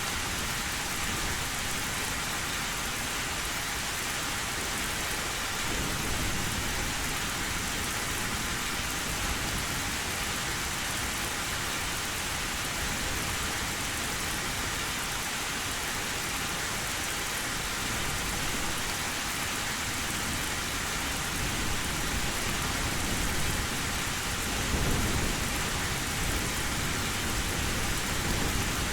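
Heavy rain drumming steadily on an old tin roof, with a low rumble of thunder swelling near the end.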